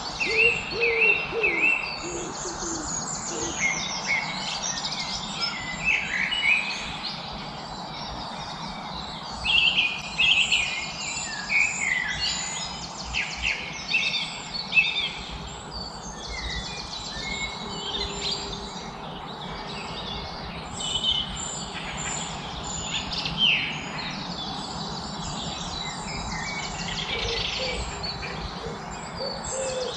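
Many birds chirping and singing at once, short trilling and whistled calls overlapping over a steady background hiss. Low repeated calls sound in the first few seconds and again near the end.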